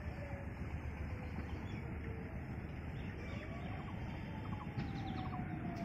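Low, steady rumble of an approaching diesel train, with a faint thin whine that slowly falls, rises again about three seconds in, then falls once more. Small birds chirp briefly now and then.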